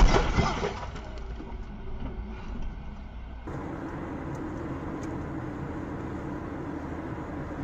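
The tail of a car crash impact fading out over the first second, then steady car engine and road noise from a moving car, changing abruptly about three and a half seconds in.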